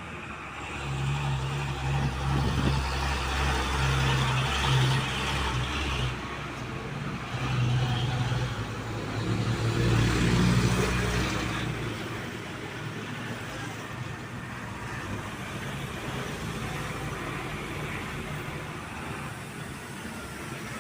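Heavy truck engine running close by with a deep drone, loudest over the first twelve seconds and briefly rising in pitch near the middle. After that it gives way to a steadier, quieter traffic noise.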